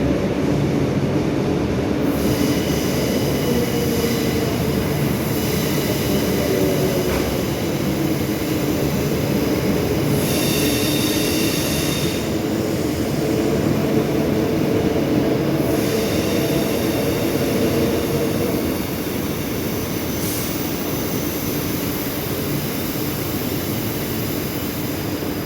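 Electric train running through the station: a steady rumble with a humming tone, and a high-pitched squeal from the wheels about ten to twelve seconds in.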